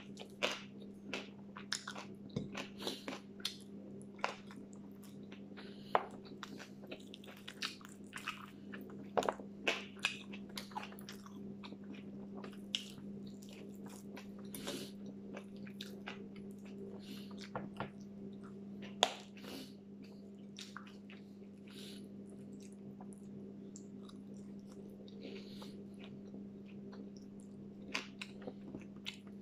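Close-up eating sounds: mouth chewing and biting, with irregular crisp clicks and crunches as fried food and rice are eaten by hand. A steady low hum runs underneath.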